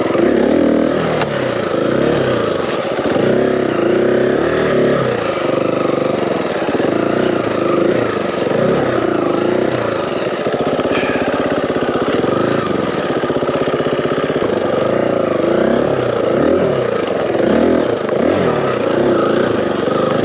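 Four-stroke dirt bike engines riding a slow trail, the engine note rising and falling every second or two with constant throttle changes.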